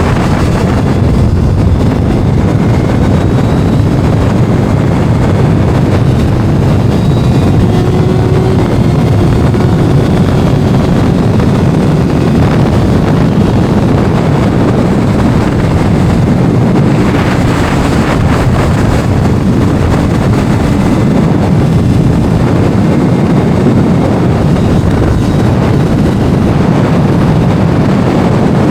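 Heavy wind buffeting on the microphone over a Kawasaki inline-four sport motorcycle engine running at speed, with a faint engine tone shifting in pitch.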